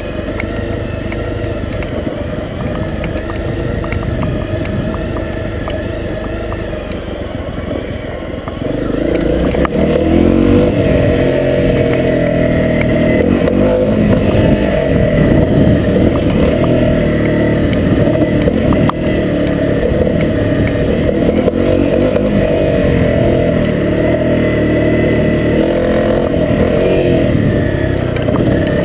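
Honda CRF250L's single-cylinder four-stroke engine running under load on a dirt trail, the revs rising and falling with the throttle. It gets louder about a third of the way in.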